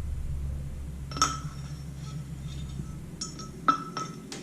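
Light metallic clinks with a short ring, one about a second in and several more close together near the end, as steel fork parts knock against each other and the fork tube during reassembly. A low steady hum sits underneath and fades near the end.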